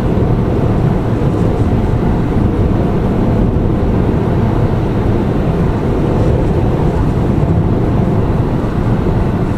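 Steady low road and engine rumble inside the cabin of a Lada Vesta Cross on the move.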